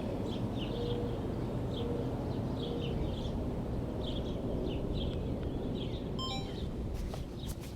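Outdoor ambience: small birds chirping repeatedly over a steady low background rumble.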